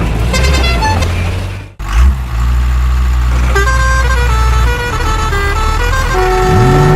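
Vehicle sounds: a steady low engine hum under a short run of held notes stepping up and down like a horn tune, with an engine note rising near the end.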